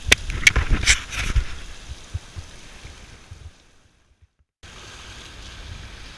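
Wind and surf noise at a rocky shore, with a few sharp knocks and clicks in the first second and a half. The sound drops out for about a second near the middle, then the steady wind and wave noise returns.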